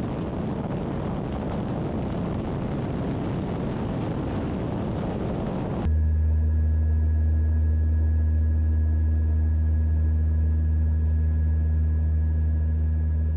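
Cal Fire C-130 Hercules turboprop aircraft: an even rushing roar of engines and air for about six seconds, then a sudden cut to a steady, louder drone with a deep fixed hum and a few steady higher tones.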